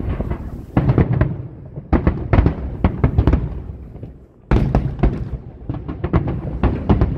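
Aerial fireworks bursting in quick volleys of sharp bangs and crackles. There is a short lull before a fresh barrage about four and a half seconds in, and rapid separate bangs near the end.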